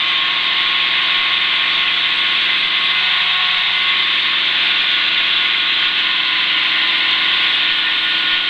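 Schweizer 300CBi piston helicopter's engine and rotors running steadily, heard from inside the cabin: an even, unchanging din with several steady tones running through it.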